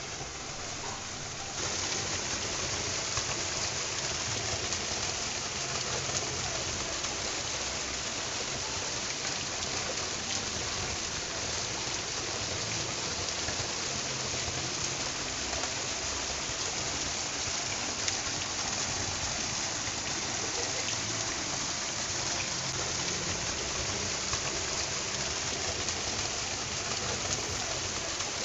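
Waterfall rushing: a steady hiss of falling water that grows louder about a second and a half in, then holds even.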